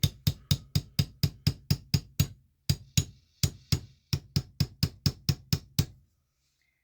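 Rapid, evenly spaced hammer strikes on a rock being split open, about four a second, each with a short ring. They pause briefly a little after two seconds and stop about six seconds in.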